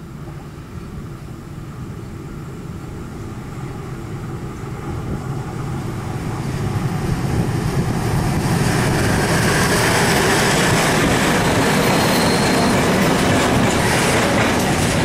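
A pair of class 740 (ČKD T669) diesel-electric locomotives running as they approach and pass, their engines growing steadily louder for the first eight or nine seconds. A train of tank wagons then rolls past at full volume, the wheels running on the rails.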